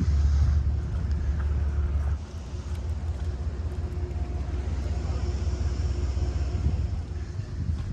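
Low, steady vehicle rumble, strongest for the first two seconds and then easing off.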